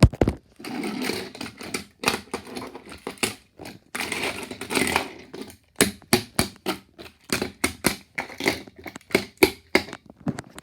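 Many quick, irregular taps and thumps with rustling in between: plush toys being bounced up and down on a surface.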